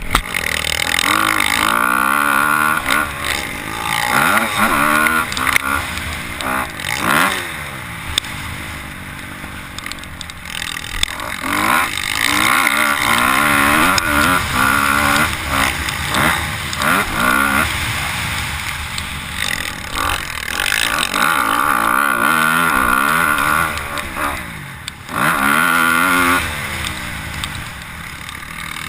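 Four-stroke motocross bikes revving on a dirt track, the engine pitch rising and falling again and again as riders open and close the throttle, with louder stretches as bikes come close.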